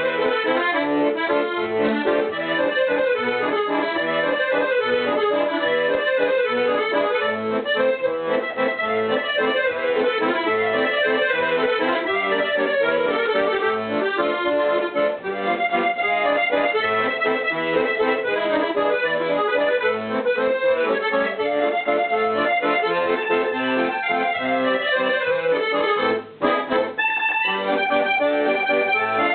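Accordion music: sustained chords and melody notes with a brief break near the end.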